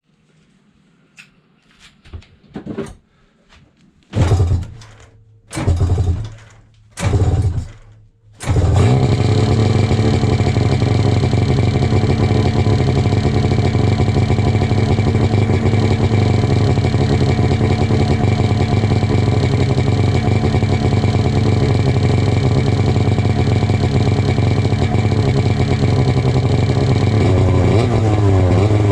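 2006 Polaris RMK 700 snowmobile's two-stroke twin engine, breathing through an aftermarket exhaust, being started: a few faint clicks, then three short bursts that fire and die, then it catches about eight seconds in and runs steadily.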